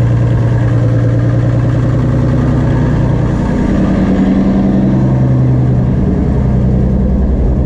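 Turbocharged Toyota Supra engine idling on its first run after about three years of sitting, with a misfire in its beat. About halfway through, the engine note rises for a couple of seconds, then settles back.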